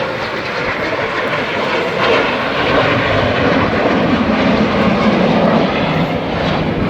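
Jet engine noise of BAE Hawk T1 jets flying past, a dense, loud rush that grows louder about two seconds in and then holds.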